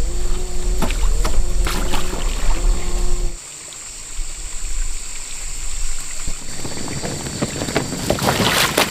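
A small motor running with a steady hum, cutting off suddenly about three seconds in. Scattered knocks and clicks follow, with a louder scraping or pouring noise near the end.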